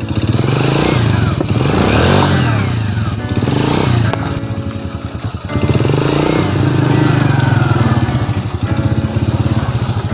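Motorcycle engine revving hard, its pitch rising and falling again and again, with a brief drop about five and a half seconds in before it picks up once more.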